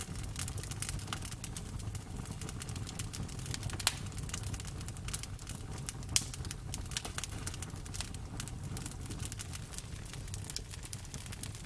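Campfire burning: a steady low rumble of the flames with many small snapping crackles from the wood, and two louder pops about four and six seconds in.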